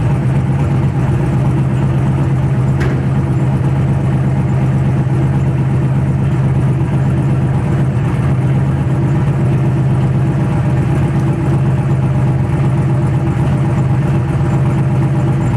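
Naturally aspirated LSX V8 in a Chevrolet Caprice idling steadily, loud, through its exhaust.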